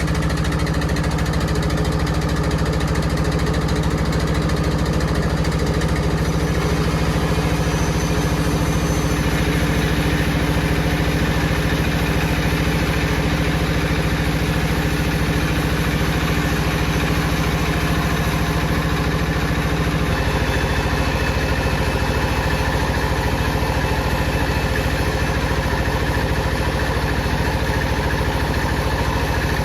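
Power saw running steadily, a continuous machine hum whose tone shifts slightly about nine seconds in and again about twenty seconds in.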